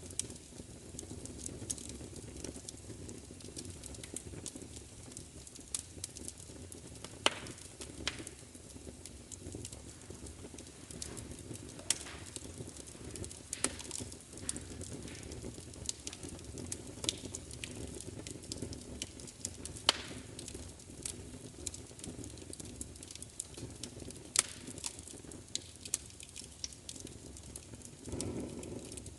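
Wood fire crackling: irregular sharp pops and snaps over a soft, steady low rush, with a brief louder swell near the end.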